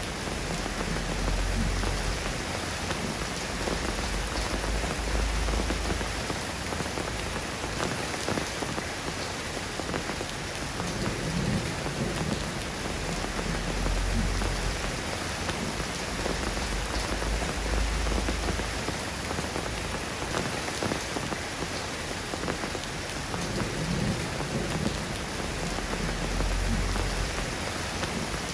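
Steady rain falling, an even patter, with a low rumble that swells and fades several times underneath.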